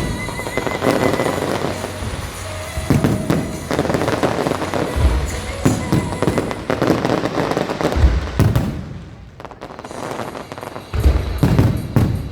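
Aerial fireworks shells bursting overhead: a string of heavy booms a few seconds apart, with dense crackling between them.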